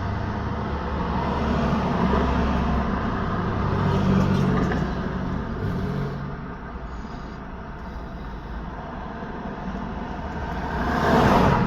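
Road traffic: steady tyre and engine noise with a low engine hum that fades out about halfway, then near the end a vehicle passes close with a rising and falling rush of tyre noise, the loudest moment.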